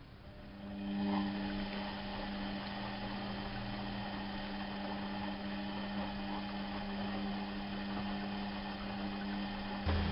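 Bauknecht WAP 6460 washing machine running: a steady mechanical hum starts right at the beginning, swells about a second in and then holds steady, with a deeper hum joining just before the end.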